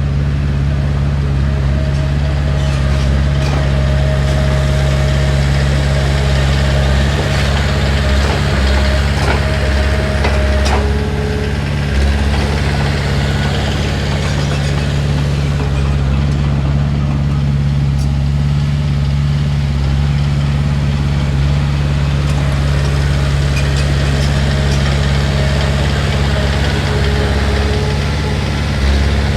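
Heavy diesel engine running steadily with a continuous low drone. A thin, faint whine sits over it for the first ten seconds or so.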